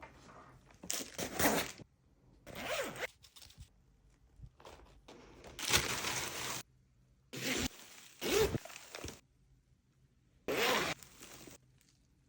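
Zipper on a bag being pulled open and shut in about six short runs, each lasting under a second.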